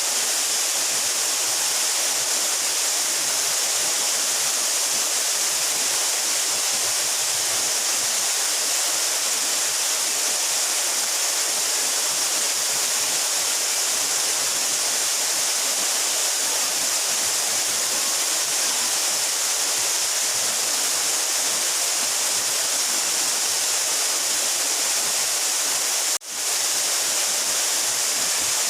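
A mountain waterfall about 12 metres high, its falling water making a steady, even rush. Near the end the sound drops out for a split second.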